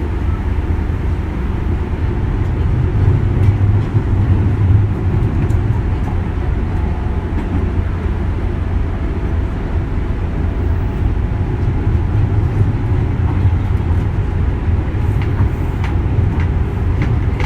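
Inside a JR West 201 series electric train running on the Osaka Loop Line: steady rumbling wheel and motor noise. A few faint ticks come near the end.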